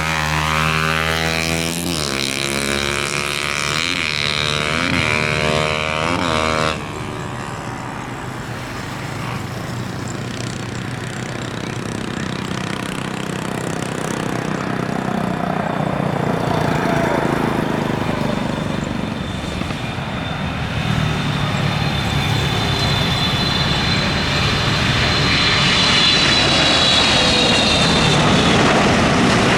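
Boeing 777's GE90 jet engines on a landing approach: a steady jet roar that changes abruptly about seven seconds in, then grows louder, with a high fan whine in the last third that sinks slightly in pitch as the airliner nears.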